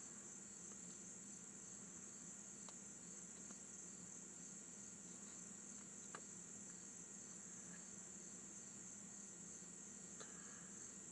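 Faint, steady trilling of crickets, with a few soft clicks scattered through it.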